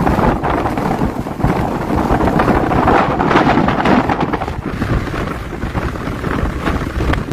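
Strong blizzard wind blowing across the microphone, a loud gusting rumble that swells and eases.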